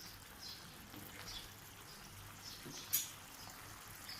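Lemon-rice tempering paste of lemon juice, tomato and ginger simmering in a pan, with faint, scattered little pops and spits as it cooks down. One sharp click about three seconds in.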